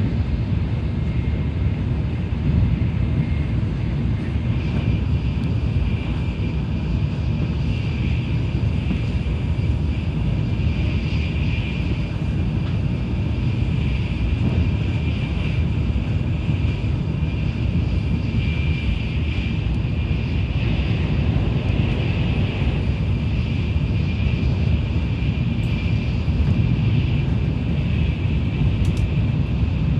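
Tokaido Shinkansen train running at speed on open track: a steady low rumble with a hiss above it and no change throughout.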